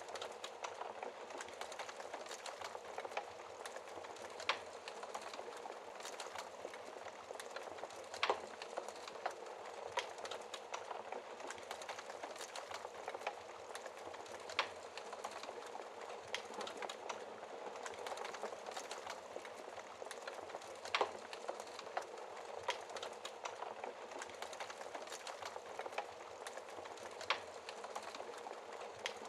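Fireplace fire crackling gently: a steady bed of small crackles with a sharper, louder pop every few seconds.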